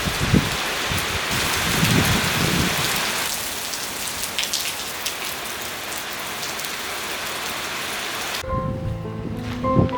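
Steady heavy rain hissing, with low rumbles of thunder near the start and about two seconds in. About eight and a half seconds in, the rain cuts off and gentle background music begins.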